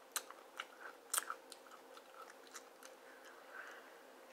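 Faint crunching of a potato chip being chewed: a scatter of short, sharp crisp cracks, most of them in the first three seconds.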